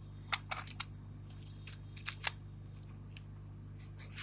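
A few light clicks and taps of small parts and hand tools being handled on a workbench, in small clusters, over a steady low electrical hum.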